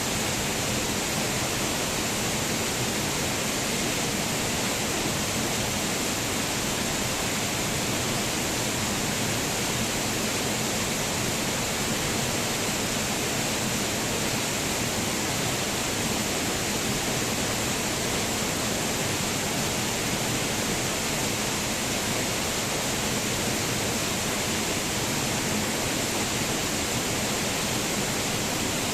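Waterfall: a steady, unbroken rush of falling water, an even hiss with no changes or separate sounds.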